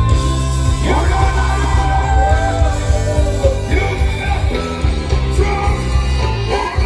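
Live band music with a singer's voice over it and a steady, heavy bass line, played at a sound check.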